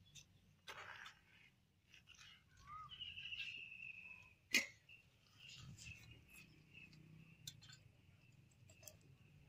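Faint bird chirping, with a trilling call about three seconds in. A few light clicks fall among the calls, the sharpest about four and a half seconds in.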